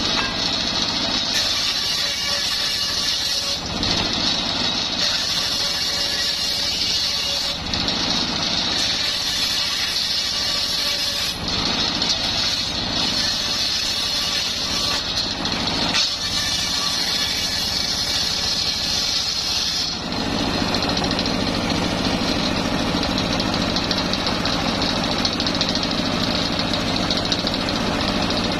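Homemade engine-driven circular saw running while sawing coconut-palm wood, a steady high whine over engine noise. The sound changes abruptly several times, and about two-thirds of the way through a deeper hum grows stronger.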